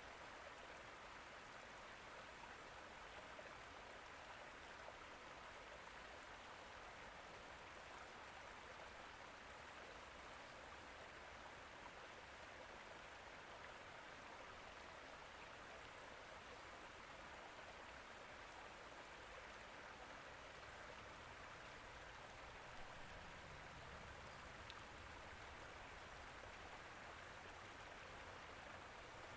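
Faint, steady rushing of water, like a stream or light rain, with no distinct events.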